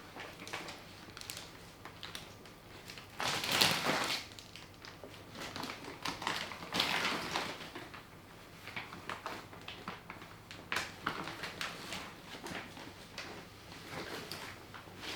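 Potting soil and plant pots being handled during repotting: gritty scraping and crunching with light knocks, loudest about three to four seconds in.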